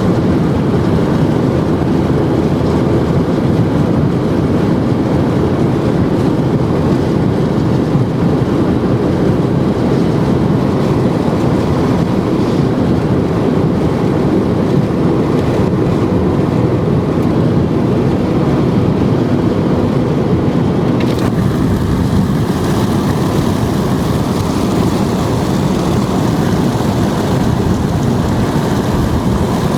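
Steady road and wind roar of a car moving at highway speed. The higher hiss changes in tone about two-thirds of the way through.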